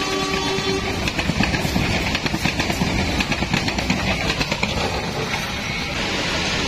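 Passenger train coaches rolling past at close range, their wheels clattering over the rail joints. The tail of the train horn dies away in the first second. Near the end the clatter stops as the last coach passes, leaving a steady hiss.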